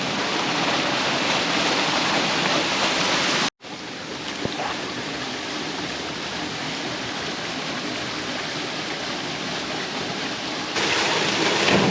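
Steady rushing of running water. It cuts out briefly about three and a half seconds in, comes back quieter, and grows louder again near the end.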